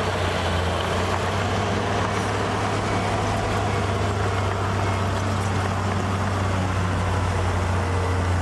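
Heavy earthmoving machine's diesel engine running steadily, a deep, even drone.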